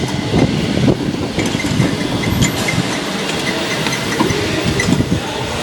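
Go-kart engine running with the kart's chassis rattling and clattering as it drives, heard from aboard the moving kart.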